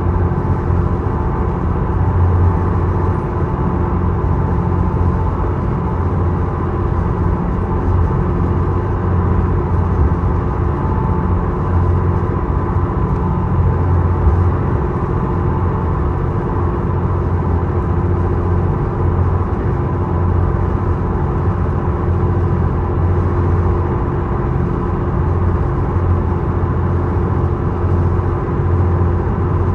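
The Isokaze ferry's engine running at a steady pace, a constant low drone with a steady hum above it.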